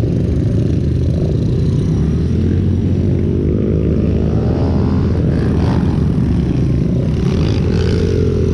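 Pit bike engine running steadily, its pitch climbing partway through as the throttle opens and holding higher near the end.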